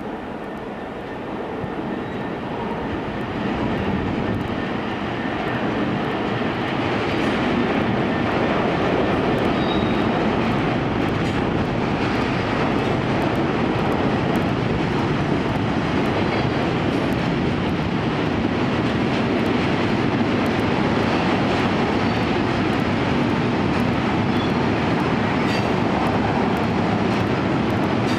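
Freight train of pressurised gas tank wagons passing on the near track. It grows louder over the first few seconds as it comes closer, then becomes a steady running noise of wheels on the rails.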